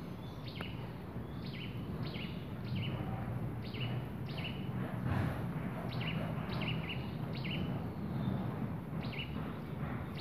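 A small bird repeating a short high chirp that steps down in pitch, about twice a second, over a steady low background rumble.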